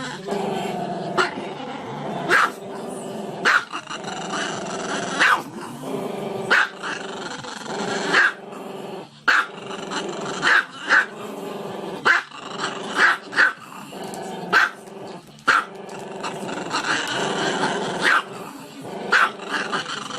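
A dog growling continuously, breaking into sharp barks about once a second.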